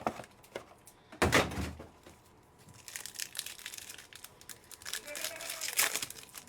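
Plastic wrapping on a box of trading cards being torn open and crumpled, with a loud rip about a second in and a run of crinkling through the second half.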